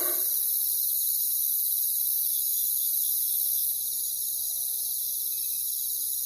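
Steady high-pitched chorus of insects, typical of crickets, with no other calls over it; it drops slightly in level a little past halfway.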